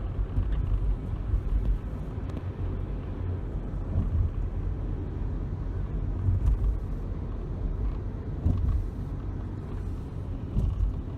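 Car driving along the road: a steady low engine and road-noise rumble.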